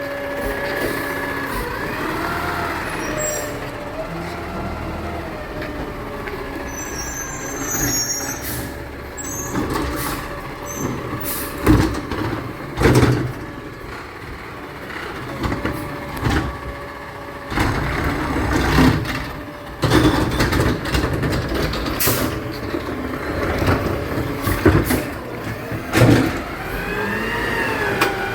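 Garbage truck running, with repeated clanks and bangs over the engine, brief high squeals, and a rising-and-falling whine near the end.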